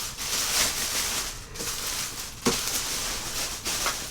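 Plastic wrapping on a newly unboxed espresso machine crinkling and rustling as it is handled, with a knock about two and a half seconds in.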